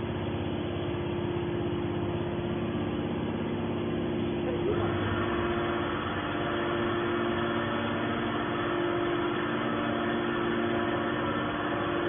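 Hydraulic baler's motor and pump running with a steady hum. About five seconds in, a higher-pitched layer of machine sound joins and holds.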